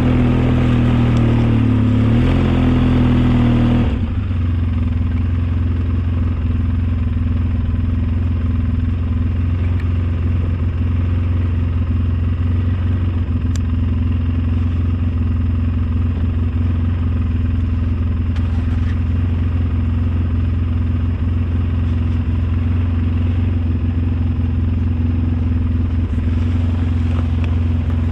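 Snowplow vehicle's engine running under load, then easing back suddenly about four seconds in and running on steadily at lower revs.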